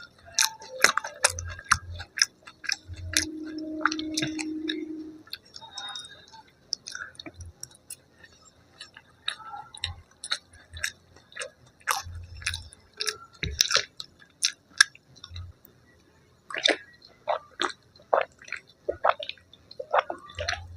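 Close-miked mouth sounds of a person eating fried food: irregular wet chewing with many short, sharp crunchy clicks and smacks, and a low hum lasting about two seconds, about three seconds in.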